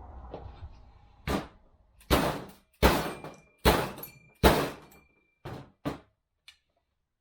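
Hammer blows on metal driving an old bearing out of a 42RE automatic transmission part: five heavy strikes with a brief metallic ring, then three lighter taps near the end.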